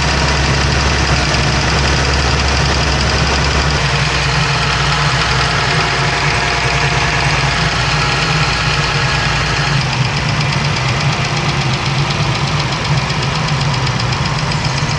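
Dodge Ram's 3.6L Pentastar V6 idling with a steady ticking, tapping noise from the valvetrain. It is typical of a bad roller follower, whose little rollers get worn and start to tick.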